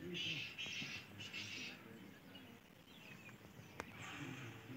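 Faint chirping and twittering of small birds, with one sharp click about a second before the end.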